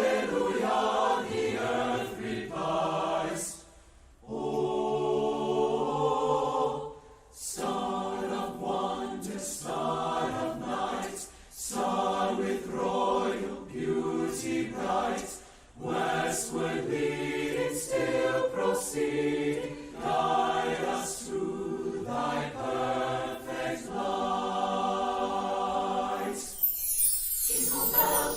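A choir singing a phrased piece, its lines broken by short pauses between phrases. Near the end comes a brief bright, high swish.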